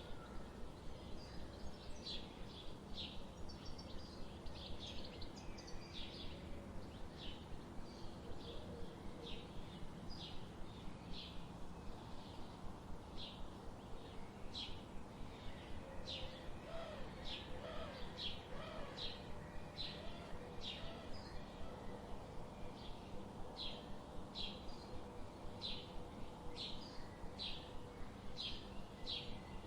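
Forest ambience: a bird repeats short, high chirps about once or twice a second, over a faint, steady background noise.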